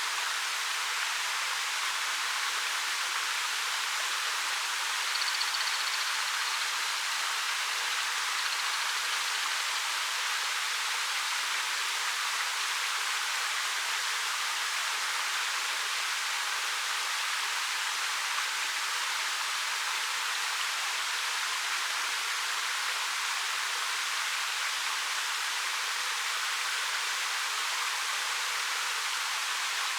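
A 13 m waterfall pouring over rock: a steady, even rush of falling water with no change in strength. A brief faint high chirp comes through about five seconds in.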